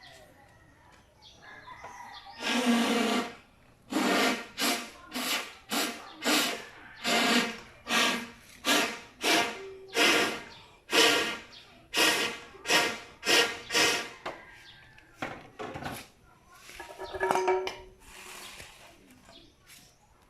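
A run of rhythmic back-and-forth scraping strokes from a hand tool working a hard material, like sawing or rasping. The strokes come at about two a second for some ten seconds, followed by a few scattered scrapes near the end.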